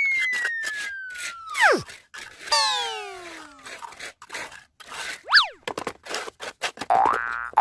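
Cartoon-style sound effects laid over the footage: a long falling slide-whistle glide that drops away steeply, a swoosh of several falling tones, and a quick rising-and-falling chirp. Near the end, a springy boing-like rising tone starts repeating about twice a second, over scattered light clicks.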